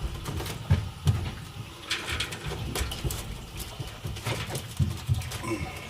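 Plastic lid of a furnace humidifier being handled and fitted back onto its housing: a string of irregular knocks, clunks and clicks.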